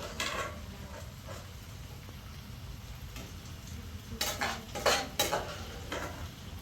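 Cooking sounds: a utensil stirring and clinking against a metal pot, with a quick run of sharp clatters about four to five seconds in.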